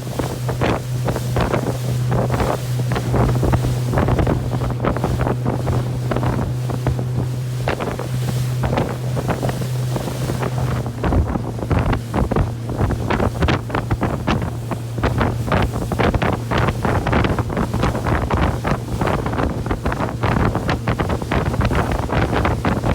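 Motorboat under way: the outboard engine runs with a steady low drone, while heavy wind buffets the microphone and water splashes against the hull. The engine note eases a little about halfway through.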